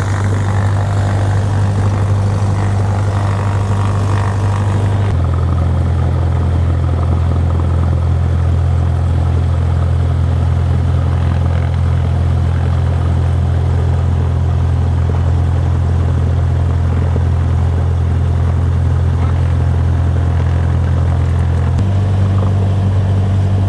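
Small propeller airplane's piston engine running steadily at low power after start-up, a steady low drone. Its tone shifts abruptly about five seconds in and shifts back near the end.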